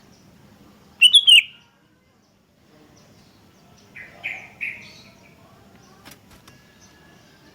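Sooty-headed bulbul calling: one loud, quick burst of notes about a second in, then three softer notes about four seconds in.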